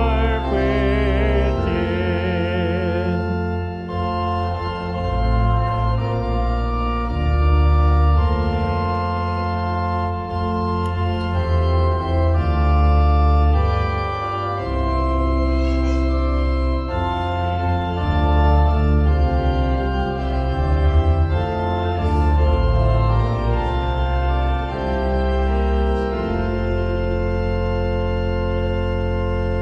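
Organ playing a slow hymn-like piece in held chords over a deep, sustained bass line, the chords changing every second or two. Wavering, vibrato-like tones sound over it for the first three seconds or so.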